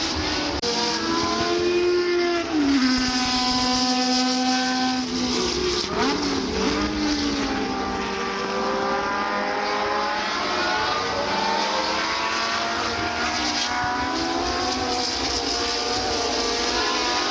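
Historic Formula 1 race car engines at high revs as several cars pass, the pitch climbing through the gears and dropping sharply at gear changes and braking, with more than one engine heard at once.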